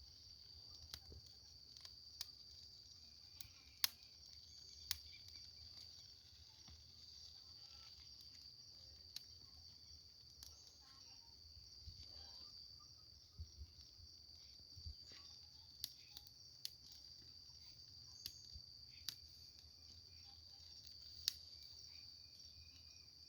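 Faint, steady high-pitched chirring of crickets, with a dozen or so scattered sharp clicks.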